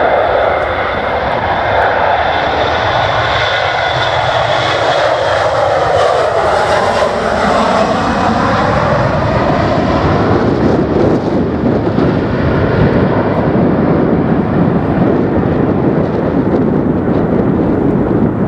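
Airliner's engines as the plane passes close by. The rushing engine sound swoops through a phasing sweep about a third of the way in, then settles into a broad, steady rumble as the plane moves off.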